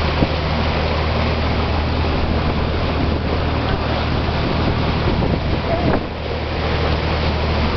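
A boat's engine running with a steady low hum, under a constant rush of wind and water.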